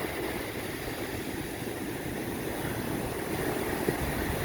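Wind rumbling on the microphone over the steady wash of ocean surf, with one brief tap about four seconds in.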